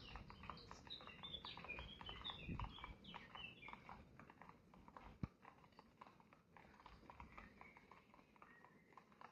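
Faint, busy high-pitched chirping and squeaking from small animals, mixed with many quick ticks. The chirping is thickest in the first few seconds and thins out later. A single sharp knock comes about five seconds in.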